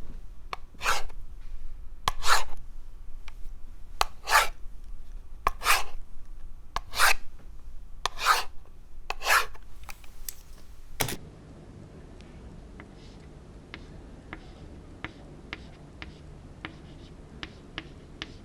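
Writing strokes on a surface: about eight loud, scratchy strokes, one every second and a half or so, then about two thirds of the way through a quieter take of light scratching with faint small taps.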